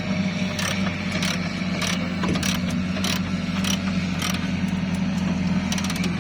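A steady low machine hum with a sharp mechanical click repeating about every 0.6 seconds.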